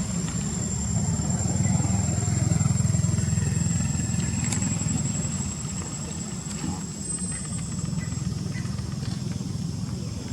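An engine running steadily with a low rumble, with a thin high-pitched whine over it that stops near the end.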